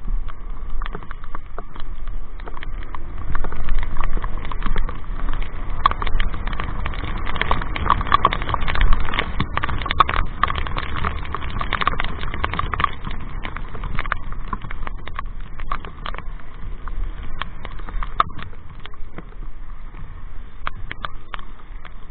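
Rain striking a motorcyclist's helmet-mounted microphone in a heavy downpour: a dense, irregular patter of sharp taps over a steady low rumble from riding.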